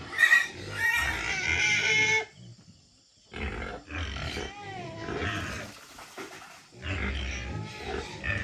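Pigs squealing and grunting in bouts, with a brief pause about two and a half seconds in.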